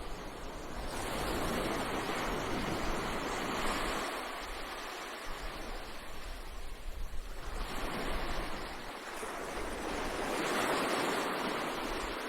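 Ocean surf on a beach, waves breaking and washing in, the rush swelling and fading about three times.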